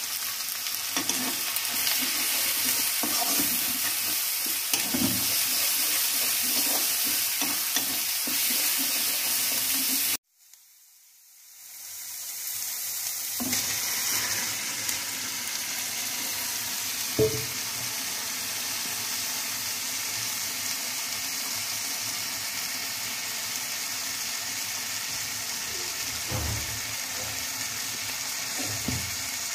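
Onions and spice paste frying in oil in a wok, sizzling steadily while a metal spatula stirs and scrapes the pan. The sound drops away briefly about ten seconds in, then the sizzling returns as raw chicken pieces are tipped into the wok, with one sharp knock a few seconds later.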